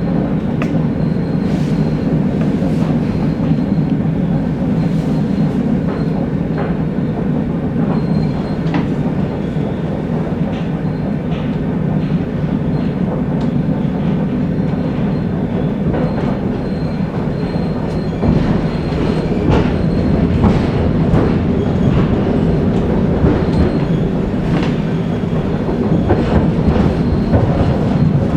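ER2K electric multiple unit running at speed, heard inside its passenger car: a steady heavy rumble with irregular sharp knocks of the wheels over rail joints. It grows somewhat louder past the middle.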